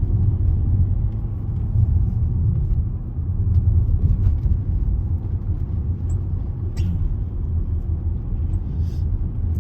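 A car driving along a road, heard from inside the cabin: a steady low rumble of engine and tyres, with a few faint clicks.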